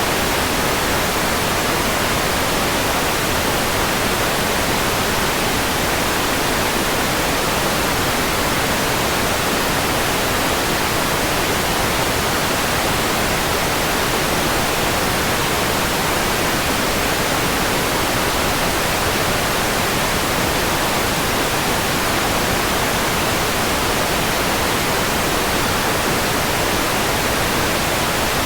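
Steady white noise: an even, unchanging hiss across all pitches, brighter in the highs, with no breaks or events.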